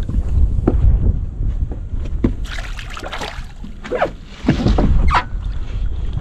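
Wind buffeting the microphone as a steady low rumble, with water slapping and splashing against a small boat's hull in short bursts.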